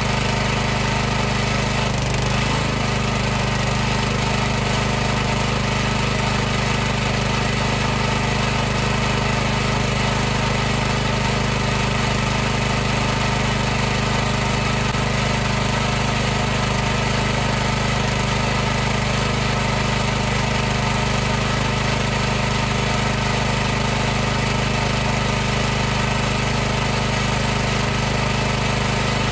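High-pressure washer running steadily: a constant motor-and-pump hum with a hiss over it, unchanging throughout.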